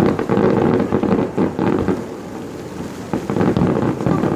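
Fireworks going off in quick succession, a dense run of booms and crackles, heaviest in the first couple of seconds and again near the end.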